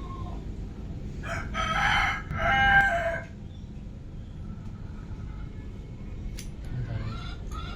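A rooster crowing once, a long call starting about a second in and lasting about two seconds.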